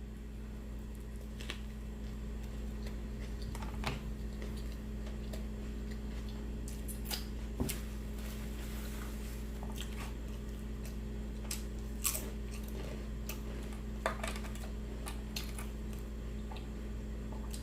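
A person chewing and biting food, with scattered short crunches and mouth clicks, over a steady low hum.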